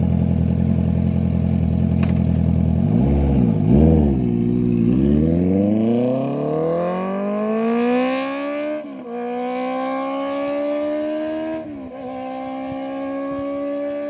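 Loud Honda CBR650F inline-four through an SC-Project aftermarket exhaust: idling, two quick throttle blips about three seconds in, then pulling away and accelerating, the pitch rising steadily and dropping twice as it shifts up a gear.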